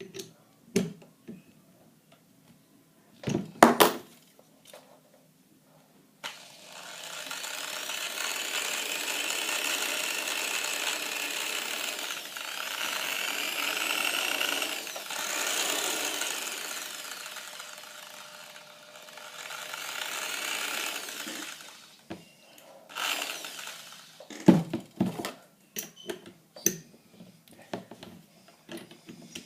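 Electric drill running for about fifteen seconds, its speed and pitch rising and falling. Sharp clicks and knocks of handling come before and after it.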